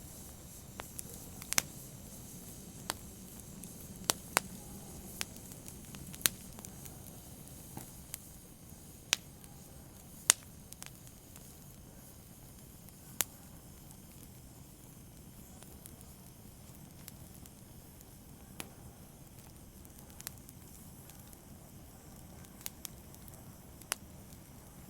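Open fire crackling: sharp, irregular pops over a low, steady hiss. The pops come often at first and grow sparser in the second half.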